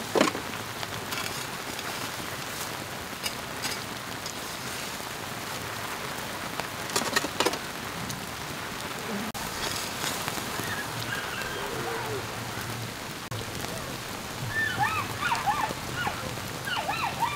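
Steady rain falling, with a couple of short knocks as a metal ladle rakes through the embers, one just after the start and one about seven seconds in.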